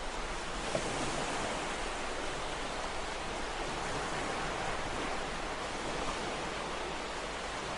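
Ocean waves washing on a shore: a steady rushing surf that swells slightly about a second in and eases off toward the end.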